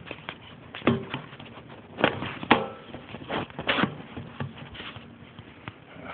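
Irregular clicks and knocks of hands and feet at a motorcycle, with the engine not yet running; the loudest knocks come about two and two and a half seconds in.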